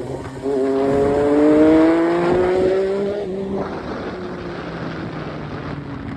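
Triumph Street Triple 675's inline-three engine accelerating: after a brief dip near the start, its pitch climbs steadily for about three seconds. The throttle then closes and the engine settles to a lower, quieter note.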